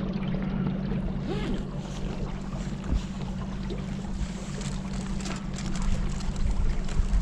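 A motor running at a steady, unchanging pitch, with wind rushing over the microphone; the hum drops away near the end.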